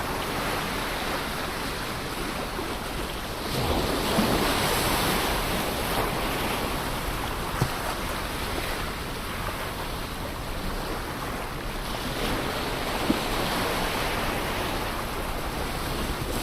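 Ocean waves washing onto the shore in a steady rush, with a wave surging in louder about a quarter of the way through. Two short clicks stand out, one around the middle and one later.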